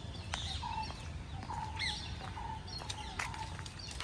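Birds calling: a short note repeated two or three times a second, with higher chirps over it and a low steady rumble underneath.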